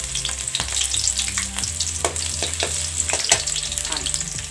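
Chopped garlic and ginger sizzling in hot oil in a metal kadai, stirred with a slotted metal spoon that clicks and scrapes against the pan, with one louder knock about three seconds in. The garlic and ginger are being lightly sautéed until they brown.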